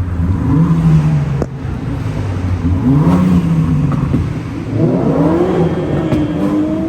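Car engines revving up and falling back several times in a tunnel, with a sharp exhaust pop about a second and a half in.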